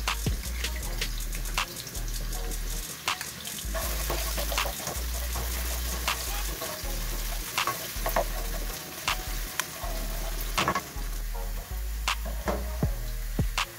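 Sliced onions sizzling in hot oil in a nonstick wok, with a plastic slotted spatula stirring them and clicking and scraping against the pan at irregular moments.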